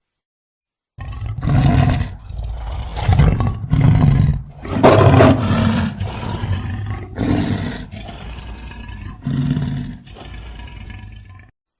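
Lion roaring bout: after a second of silence, a series of deep, loud roars, the longest about two and a half seconds, gives way to shorter grunting calls that grow weaker and stop shortly before the end.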